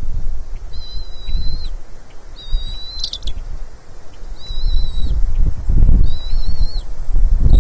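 Bald eagles calling on the nest: four high, slightly wavering squeals of about a second each, evenly spaced, with a fifth beginning at the end. A loud low rumble of wind on the microphone runs beneath.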